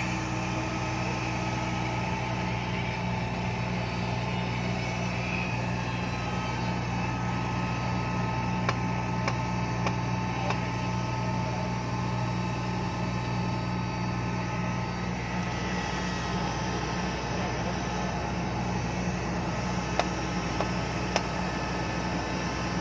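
Epiroc DM45 drill rig's diesel engine running steadily at a constant pitch, with a few short sharp metallic clicks about nine seconds in and again near the end.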